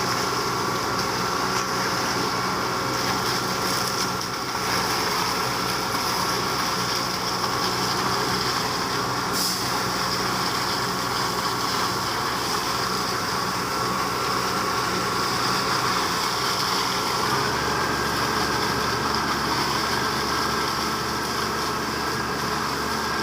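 Heavy diesel truck engine running steadily, its note stepping up about 17 seconds in.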